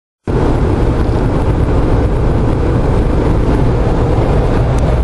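Steady road and wind noise inside the cabin of a Jeep Wrangler JK cruising at highway speed, cutting in abruptly a quarter second in.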